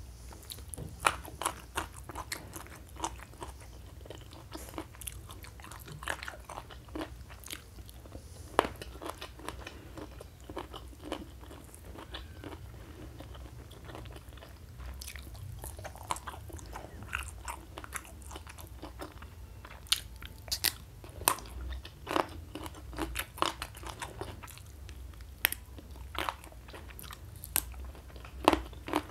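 Close-miked mukbang eating: a person chewing and crunching food, with irregular sharp crunches and mouth clicks that come thicker and louder in the second half.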